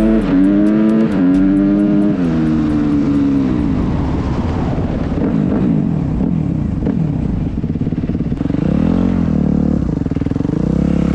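Dirt bike engine revving, its pitch climbing and dropping with the throttle over the first few seconds. It keeps running with shifting pitch, then rises and falls again near the end.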